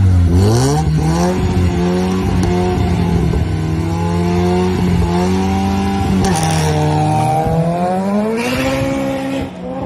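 Two hatchback cars launching from a standing start in a drag race and accelerating hard down the strip. The engines rev up through the gears, the pitch climbing and dropping back at each upshift. The sound fades as the cars pull away near the end.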